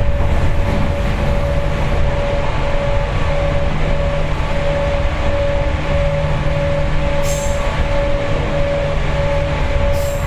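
Seibu 4000 series electric train running, heard from inside the passenger car: a steady low rumble of the wheels on the rails with a steady mid-pitched hum over it. Short high squeals come about seven seconds in and again near the end.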